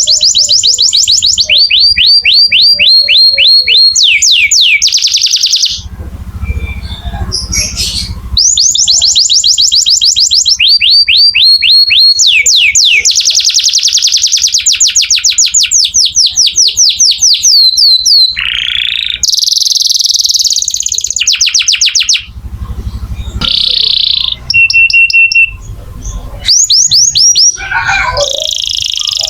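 Domestic canary singing loud, rapid trills: long runs of quick repeated notes that sweep down in pitch, broken by a couple of short pauses, with shorter varied phrases and a brief steady whistle in the second half.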